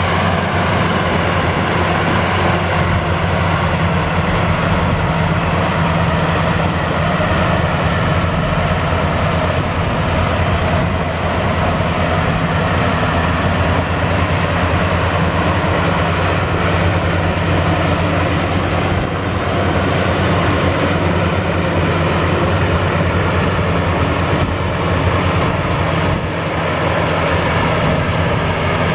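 Maxxi Bimo rice combine harvester running steadily, its engine holding a constant low drone with machinery noise over it.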